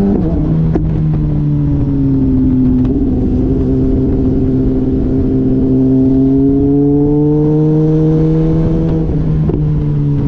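Motorcycle engine on track, its pitch dropping sharply just after the start, then climbing slowly as it pulls for about nine seconds, then dropping sharply again near the end.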